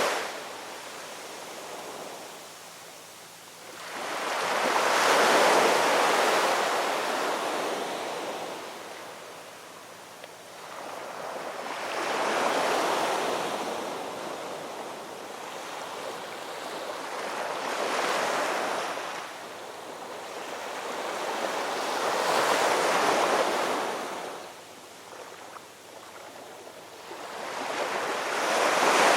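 Gentle ocean waves surging in and drawing back, about five swells, one every five or six seconds, each rising to a rushing peak and fading away.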